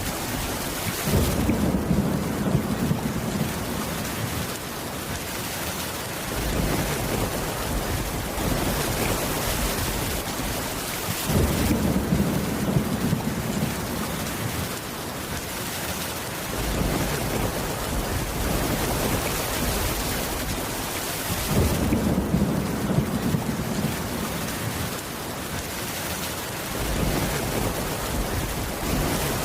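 Steady heavy rain with a low rumble of thunder rolling in about every ten seconds, three times, each lasting several seconds.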